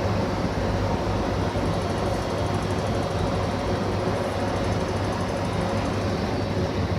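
MTR electric multiple-unit train running, a steady rumble with a low hum.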